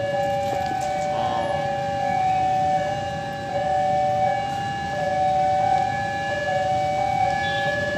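Railway level-crossing warning alarm sounding: two steady electronic tones, one a little higher than the other, held on with brief breaks. A low rumble lies underneath.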